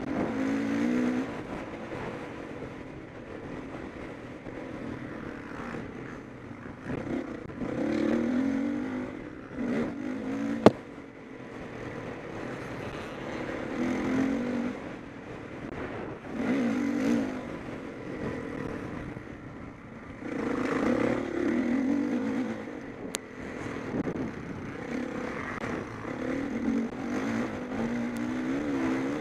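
Motocross bikes racing, their engines revving up and dropping back again and again as riders pass in swells every few seconds. A single sharp knock comes about ten seconds in.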